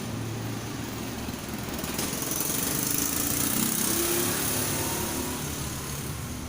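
A small engine running over a steady low hum, growing louder about two seconds in and easing off toward the end.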